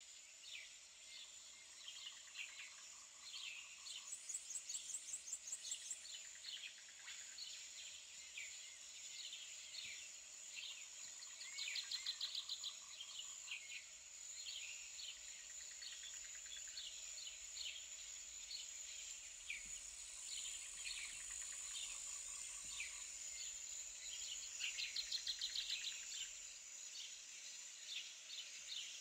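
Small birds chirping throughout, with a rapid trill three times, over a steady high hiss.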